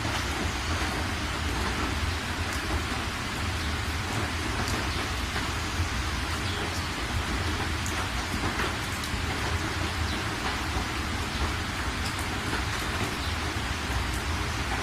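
Steady rain, an even hiss with scattered drop ticks over a constant deep low rumble.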